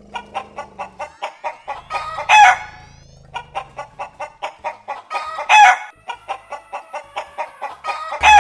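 Chicken clucking rapidly, about four clucks a second, with three loud short squawking calls roughly three seconds apart.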